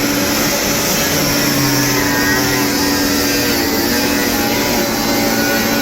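An engine running steadily and loudly.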